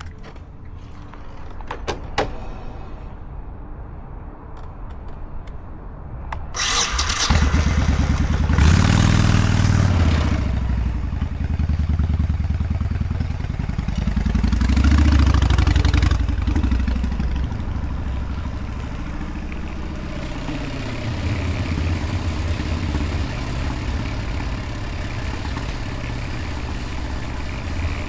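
Motorcycle engine running low and quiet, then pulling away about six seconds in and revving up and down as the bike rides, the pitch rising and falling several times, with wind rushing on the microphone.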